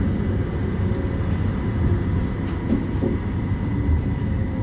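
West Midlands Metro tram (CAF Urbos 3) running between stops, heard from inside the passenger saloon: a steady rumble of wheels and running gear with a thin, constant high tone above it.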